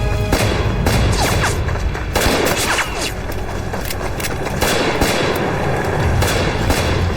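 Film-soundtrack gunfight: a dense fusillade of rifle and machine-gun shots, many in quick succession, mixed with booms, over a background music score.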